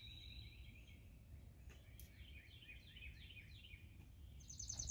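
Faint birdsong over a low background rumble: a run of five or six quick down-slurred notes in the middle, then a fast high trill near the end.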